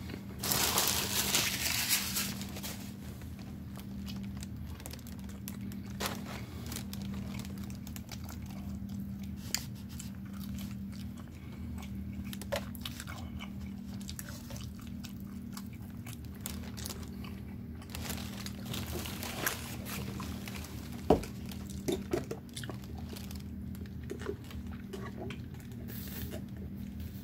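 Close-up chewing and crunching of food in a person's mouth, loudest in a crunchy stretch about a second in and again near two-thirds of the way through, with many small wet clicks between. A steady low hum runs underneath.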